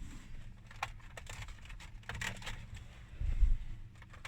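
Plastic dash trim panel being jiggled back into place: scattered light clicks and knocks, with a heavier low thump a little past three seconds.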